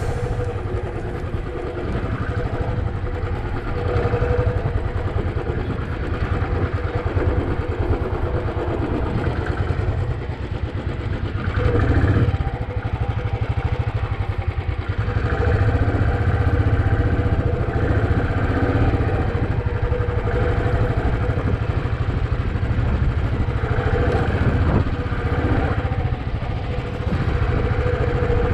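Royal Enfield Bullet 350's single-cylinder four-stroke engine running steadily as the motorcycle is ridden along an unpaved track, with a brief swell in the engine sound about twelve seconds in.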